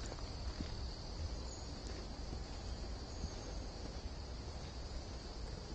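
Insects droning steadily at one high pitch, over a low rumble.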